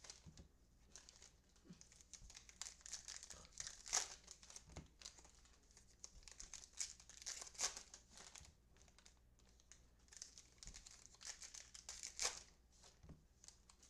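Trading-card pack wrappers crinkling and tearing as packs are opened and handled, in uneven handfuls of crackle with louder crinkles about four, eight and twelve seconds in.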